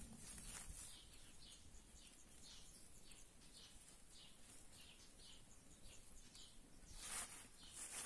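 Faint bird calls in a rural field: a series of short high notes repeated about twice a second. Two brief hissy noises break in, one just after the start and a louder one about seven seconds in.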